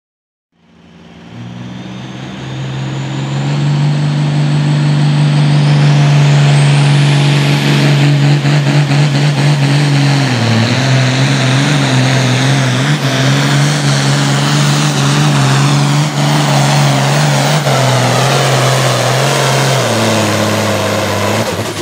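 Hot farm class International tractor's diesel engine pulling under full load down a tractor-pull track, loud and steady. A high turbocharger whistle climbs in pitch a few seconds in, and the engine note sags briefly about halfway through and again near the end.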